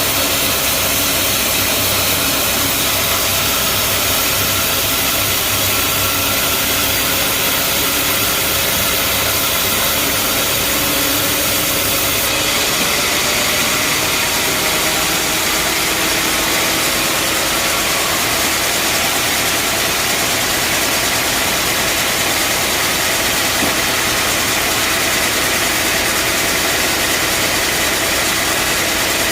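Bandsaw sawmill running: a loud, steady machine noise with an even engine-like hum, its tone changing slightly about twelve seconds in.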